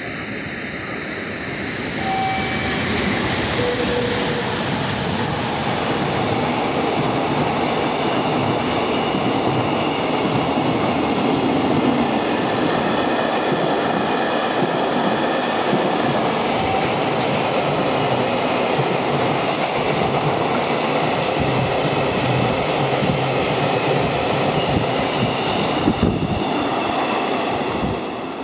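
Train passing on the line, a steady rumble of wheels on rails with a faint high whine that builds about two seconds in and holds for over twenty seconds before cutting off abruptly.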